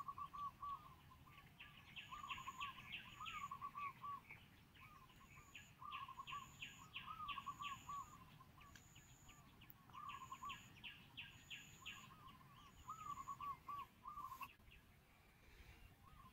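Faint birdsong outdoors: repeated phrases of quick wavering whistled notes and rapid chirps, in bursts of a second or two, with a thin high note in short dashes recurring about once a second. The calls fade away near the end.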